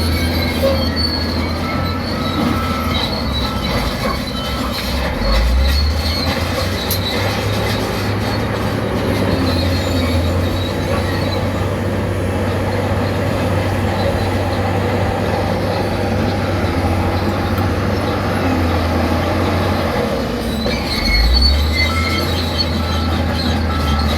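Crawler bulldozer working: a heavy diesel engine running under load with high squealing and clanking from its steel tracks. The engine note shifts about five seconds in and again near the end.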